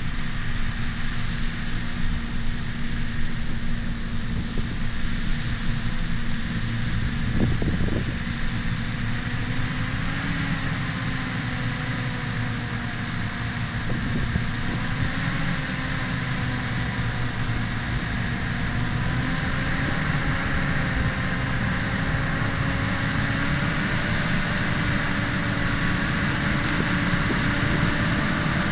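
Bulldozer's diesel engine running steadily under load, its pitch wavering a little, with a brief knock about seven and a half seconds in.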